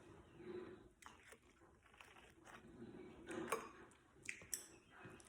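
Faint chewing and biting, with a few soft crunches now and then, louder around the last couple of seconds.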